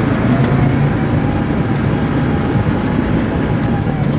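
ATV engine running steadily while under way, a loud low drone.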